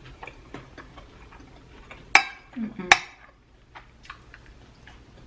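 Knife and fork clicking against a plate as steak is cut, with two sharp ringing clinks about two and three seconds in.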